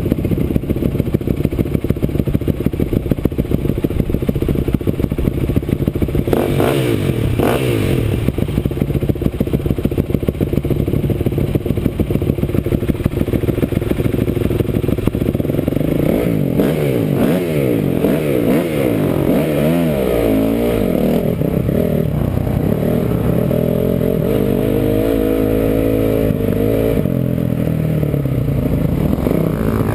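Engine of an off-road vehicle running hard on a trail ride, its pitch rising and falling repeatedly in the second half as the throttle opens and closes, with clattering from the machine.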